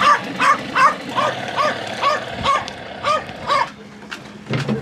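A puppy barking in a rapid run of short, high barks, about two or three a second, stopping near the end.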